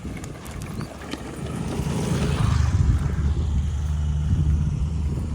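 A motor vehicle's engine running, swelling in level about two seconds in and then holding steady, with a few light clicks before it.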